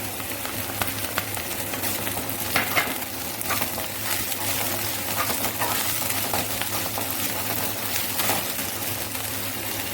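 Chopped onion and capsicum sizzling in hot oil in a kadai, with a spatula scraping and clicking against the pan as it is stirred.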